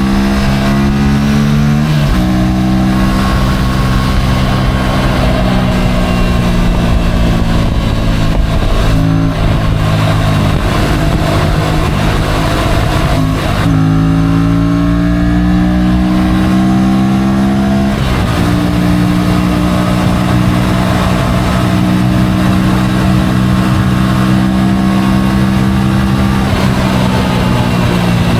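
Motorcycle engine running under way, its pitch steady for long stretches and stepping abruptly up or down a few times, over a constant low rumble of wind and road noise.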